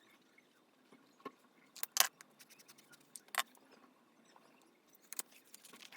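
Desk stationery being handled: a handful of sharp clicks and taps of pens on a desk, the loudest about two seconds in, over faint light rustling.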